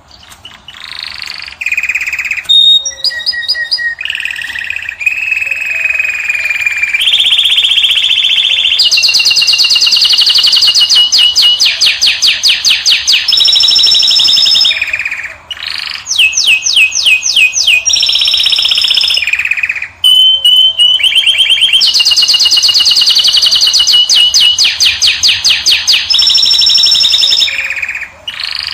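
A caged finch singing loudly and continuously, a canary-style song of long phrases built from rapid trills and runs of repeated notes, with two brief pauses.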